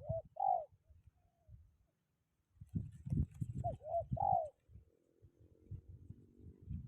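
Spotted dove (tekukur) cooing its three-note call twice, once at the start and again about four seconds in. Wind buffets the microphone with low rumbling thumps.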